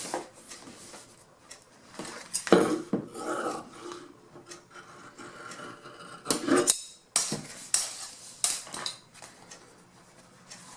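Handling noises as upholstery pieces and tools are moved about on a worktable: irregular rubbing and rustling with a few sharp knocks and clacks, the loudest about two and a half seconds in and again around seven seconds.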